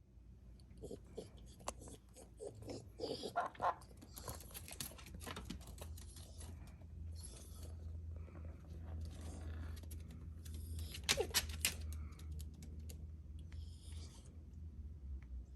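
Close-up sounds of a pet animal: short snuffling bursts and scattered clicks and taps, over a steady low hum.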